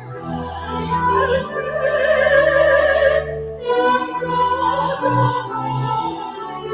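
A hymn sung with organ accompaniment: a trained voice holding long notes with vibrato over sustained low organ chords.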